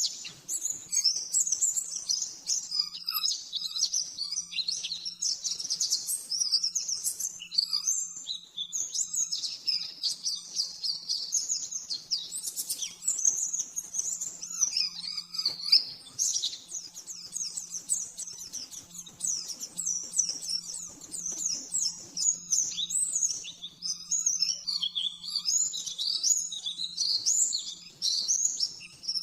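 White-eye (pleci) singing a fast, unbroken, high-pitched twittering song, one phrase running straight into the next: the rapid 'nembak' style of song. A faint steady low hum lies underneath.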